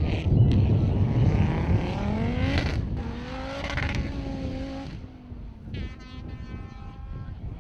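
Rally car accelerating hard: the engine note climbs, drops once at an upshift, holds, then fades away after about five seconds. A faint steady high tone sounds near the end.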